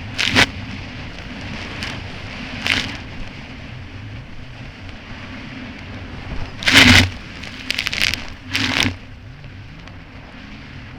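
Kawasaki Ultra 300X jet ski engine running steadily under way, broken by loud splashes and slaps of the hull hitting choppy water: once early, once near three seconds, and three in quick succession around seven to nine seconds.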